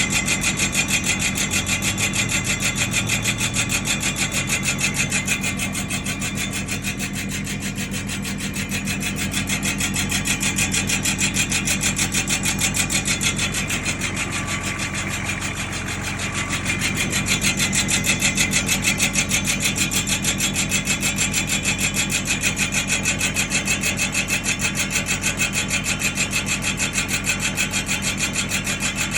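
Nissan Patrol's drum brake grinding in a fast, even rhythm as the wheel turns, over a steady engine hum; the level dips slightly twice and comes back.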